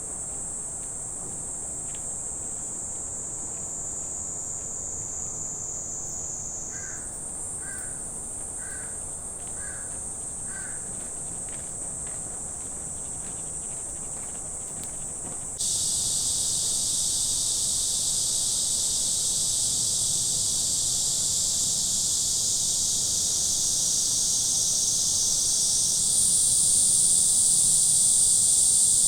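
Summer forest insects keeping up a steady high-pitched drone that suddenly gets much louder and fuller about halfway through. Between about 7 and 11 seconds a bird calls five times, about once a second.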